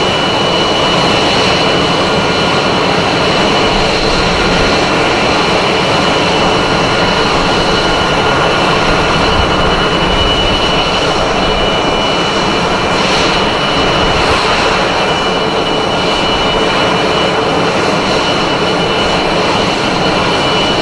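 F-22 Raptor's jet engines running at a steady, loud roar, with a high steady whine over the rushing noise.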